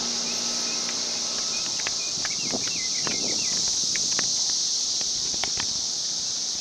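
Cicadas buzzing in a steady high-pitched drone, with short chirps and a few light clicks over it.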